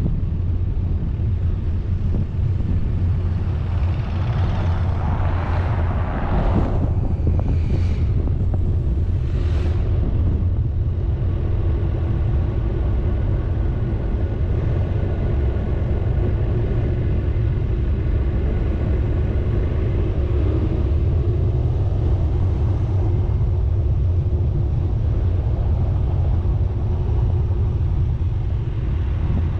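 Steady low engine and road rumble from a moving vehicle, with a few brief rushing sounds about four to ten seconds in.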